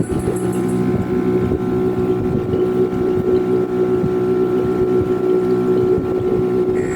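Small airbrush compressor running steadily with a hum, its air hose bubbling hard through a container of water; the strong bubbling shows a good air output from the repaired pump.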